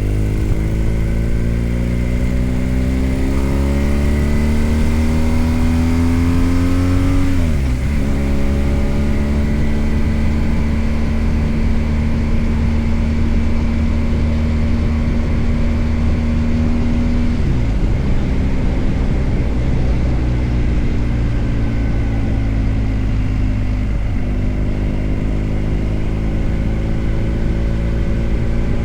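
BMW R1250GS Adventure's 1254 cc boxer-twin engine under way: it rises in pitch as the bike accelerates, then drops sharply at an upshift about seven seconds in. It holds a steady pitch at cruise, with further gear changes around seventeen and twenty-four seconds.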